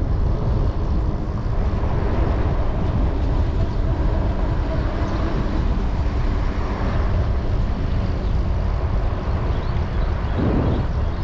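Wind buffeting the microphone with road noise while riding a Super73 electric bike along a road: a steady, loud, low rumble.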